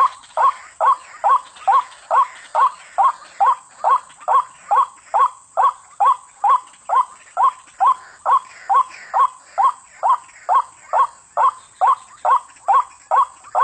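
White-breasted waterhen (ruak-ruak) calling: a long, even series of short rising 'wak' notes, about two a second.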